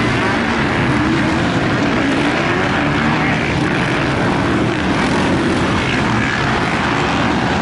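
Several motocross bike engines running loudly together on the track, their pitch rising and falling as riders work the throttle.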